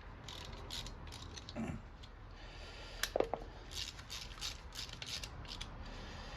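Ratchet wrench clicking in short irregular runs while the engine is turned over by hand to set the ignition timing.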